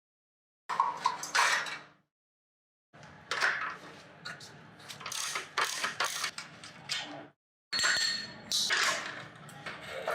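Metal parts and hand tools clinking and clanking in quick sharp knocks with some ringing, in three short bursts, each cut off dead in between.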